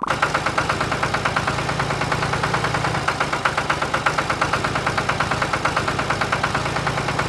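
Tractor engine running steadily with a fast, even chug, starting abruptly.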